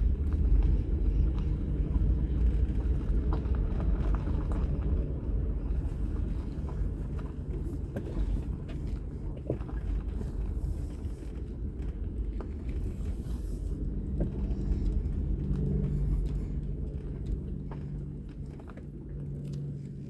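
Vehicle driving slowly on a rough mountain road: engine and tyre rumble, with a steadier engine hum about two-thirds of the way in and the sound dying down near the end as it slows to park.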